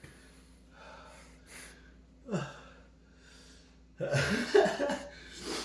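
A man breathing hard and gasping from the burn of raw bird's eye chillies, with a short falling groan about two seconds in and a loud, rough gasping breath about four seconds in.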